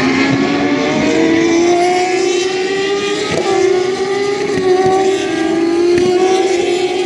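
Turismo Carretera race car engines running hard at high revs, the pitch climbing slowly with brief dips.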